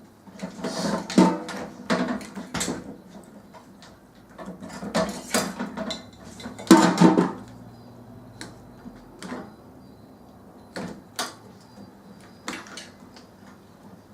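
Knocks, clicks and rattles of metal and plastic microwave parts being handled and pulled apart during a teardown. The clatter comes in a few busy bursts, the loudest about seven seconds in, then single sharp clicks spaced a second or two apart.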